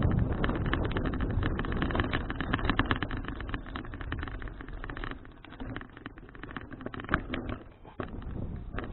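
Riding noise from a folding bicycle rolling along a road: rumble and dense rattling and knocking, with wind on the action-camera microphone. The rattle thins out and gets quieter in the second half.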